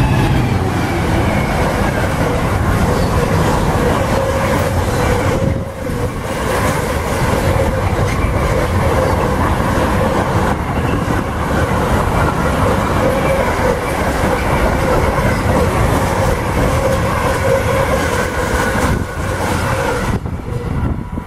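A GBRf Class 66 diesel locomotive hauling a container freight train passes close by at speed, followed by its long rake of loaded container wagons running past. The wagons make a loud, steady rumble with a steady whining note through it.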